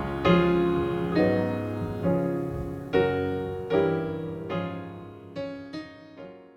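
Slow piano music, a chord struck roughly once a second, each one ringing and decaying. The music gradually fades out, dying away near the end.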